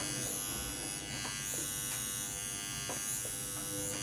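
Steady buzz of a small electric motor, its pitch shifting a little now and then.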